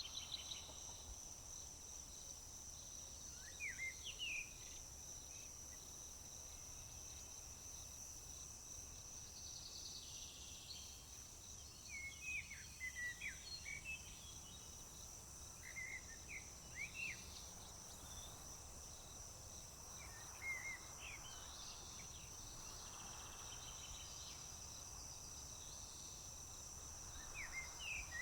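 Crickets trilling in one steady, unbroken high note, with a songbird calling in short bursts of quick sweeping notes every few seconds.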